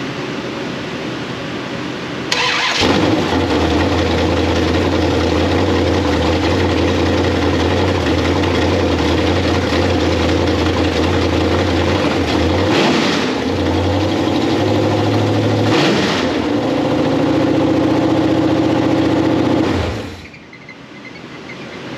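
Chrysler LA small-block V8, a 318 stroked to 349, firing up about two seconds in after its swap into a pickup, then running through long-tube headers and glasspack-style mufflers. It is revved briefly twice and shut off near the end.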